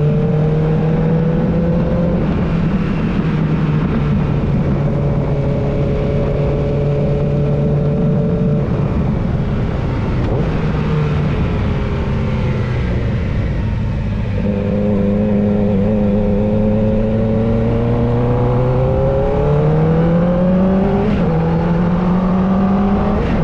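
Kawasaki ZX-4R's 399 cc inline-four running through an aftermarket Akrapovič-replica exhaust. The engine note holds steady for long stretches, drops about a third of the way in, and climbs again near the end as the throttle is opened.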